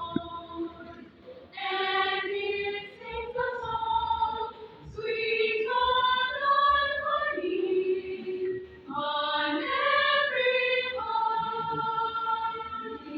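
A choir singing long held notes in phrases, with short pauses between them.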